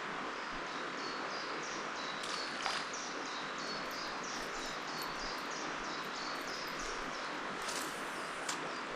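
A small bird repeating short, high chirps, about three a second, over a steady rushing background. There are a few sharp clicks, the loudest about two and a half seconds in and near the end.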